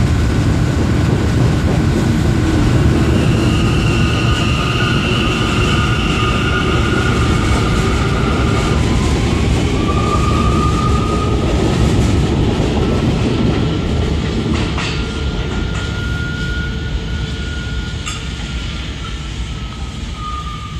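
R179 subway train running on the track with a steady heavy rumble of wheels and high whining tones that glide slightly in pitch, with a couple of sharp clicks late on. It grows quieter over the last several seconds as the train pulls away.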